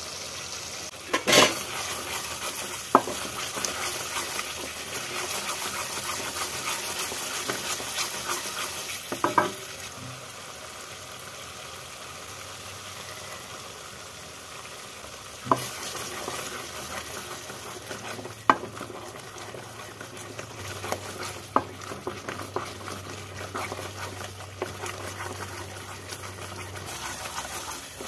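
Thick onion-tomato gravy sizzling in a steel kadai while it is stirred with a wooden spatula, with a handful of sharp knocks of the spatula against the pan. The sizzling gets quieter about a third of the way through.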